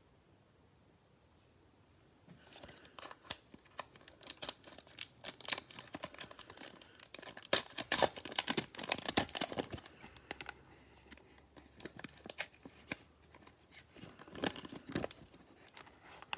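Plastic wrapper of a Prizm football card cello pack being torn open and crinkled. It starts about two seconds in, is loudest and densest in the middle, and thins to scattered crackles near the end.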